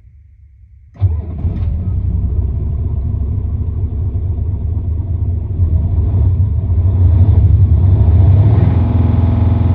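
Hino F21C V8 diesel engine of a Selega coach starting up: it fires about a second in and runs rough and loud, gets louder a few seconds later, then settles into a steady even idle near the end.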